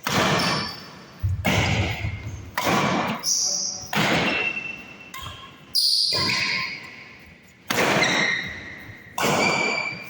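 Badminton rally: a racket strikes the shuttlecock about seven times at a steady back-and-forth pace, each hit a sharp crack with a short echo off the hall.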